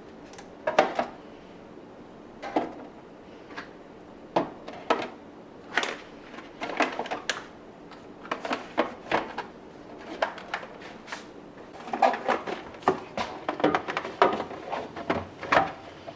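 Containers and food items being handled and set down in a refrigerator: a string of irregular knocks and clatters, coming thick and fast near the end.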